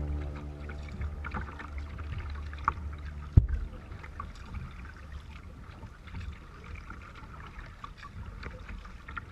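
Live sound of a kayak on the water: a low rumble with light splashing and scattered small clicks, and one sharp knock about three and a half seconds in. A held musical chord fades out in the first second.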